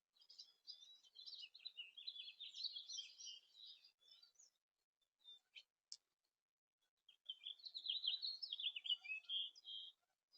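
A small songbird singing two long, rapid, twittering song phrases, the first right away and the second about seven seconds in, with a few short chip notes in between.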